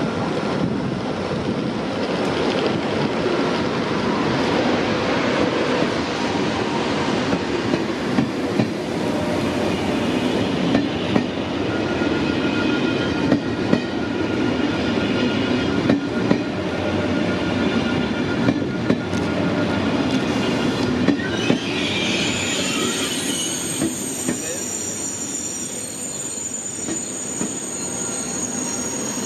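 TGV POS high-speed trainset moving slowly through the station: steady rolling noise, with the wheels clicking irregularly over rail joints and points. High-pitched wheel squeal sets in a little over 20 seconds in.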